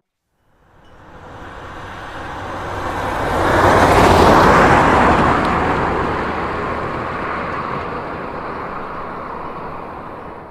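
A broad rushing noise with no clear pitch swells to its loudest about four seconds in, then slowly fades away.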